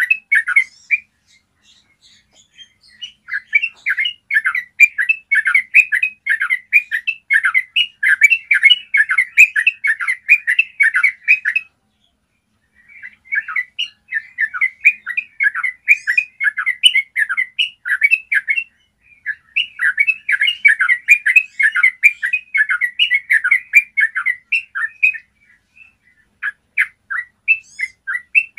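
Yellow-vented bulbul (trucukan) singing long, rapid runs of bubbly notes, the rolling 'ropel' song. It sings in bouts of several seconds each, broken by short pauses, with a few scattered notes near the end.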